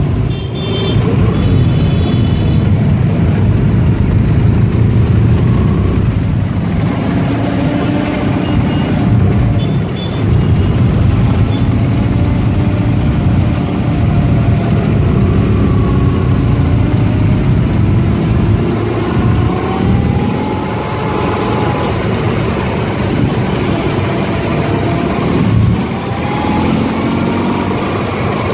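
Ural 750 air-cooled flat-twin motorcycle engine running on the move. Its note rises and falls with the throttle, mixed with the engines of the surrounding motorcycles.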